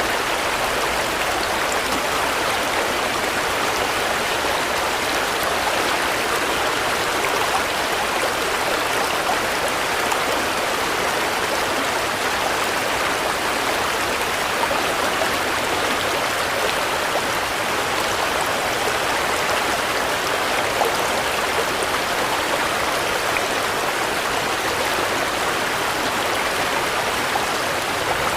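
Steady rain: a dense, even hiss of falling drops with small scattered drop ticks, unchanging throughout.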